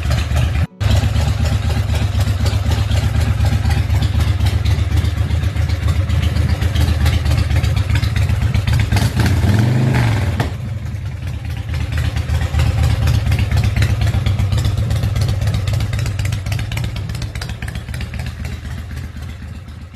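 Big Dog Ridgeback chopper's carbureted S&S 107 V-twin engine running, with a short blip of the throttle about halfway through, after which it settles lower and fades near the end.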